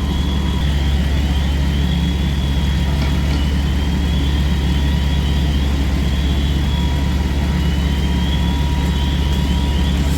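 Heavy vehicle engines running steadily at a fire scene, a loud low drone. A faint high chirping repeats over it.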